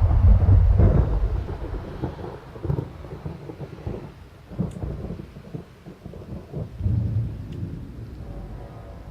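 A sudden deep boom rolling into a low rumble that fades over about two seconds, followed by weaker rolling rumbles, like thunder. It is one of the unexplained booms heard in the sky.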